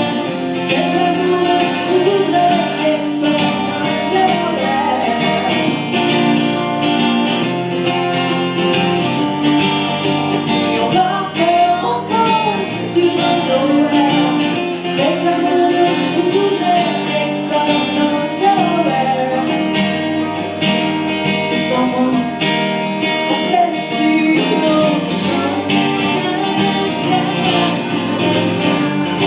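A song performed live: acoustic guitar strumming under a woman's singing voice, the closing part of the song.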